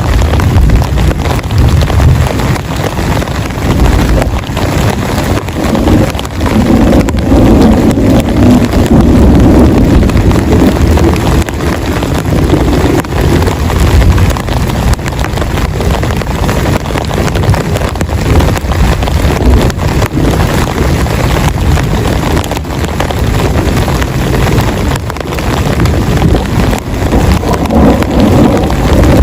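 Heavy rain pelting a tent, a loud steady hiss of dense drops over a deep rumble.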